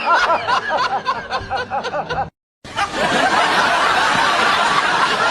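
Rapid giggling: a quick string of high, rising-and-falling laughs, about six a second. This stops abruptly about two seconds in, and after a brief gap a steady, noisy background takes over.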